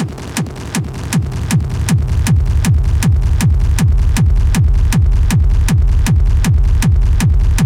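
Fast, driving schranz-style techno played on hardware drum machines and synthesizers. A pounding kick drum drops in pitch on each hit, about three hits a second, under sharp hi-hat ticks. A heavy low bass swells up over the first couple of seconds.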